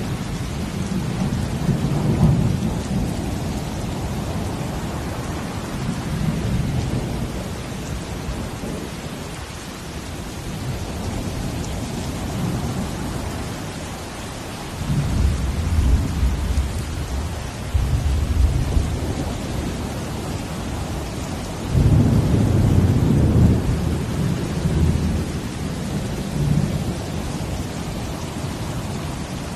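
Steady rain hiss over ocean waves, which break in deep, low rumbling swells several times, most strongly in the second half.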